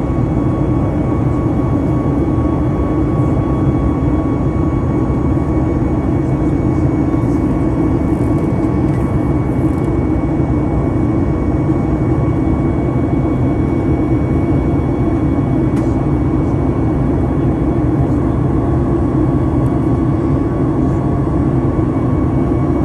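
Steady, loud drone of an aircraft in flight heard from inside the cabin: a deep, even roar of engine and air noise with a faint steady whine above it, unchanging throughout.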